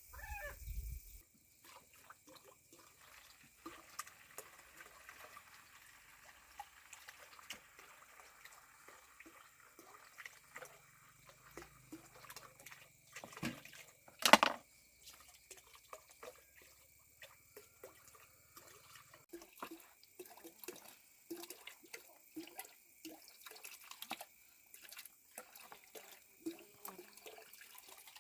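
Faint water sounds with many small clicks and drips from hands-on work, and one sharp knock about 14 seconds in.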